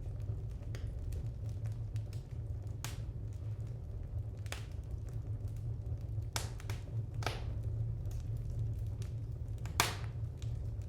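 Wood fire crackling in a fireplace: a steady run of small ticks with several sharp pops, the loudest near the end, over a steady low rumble.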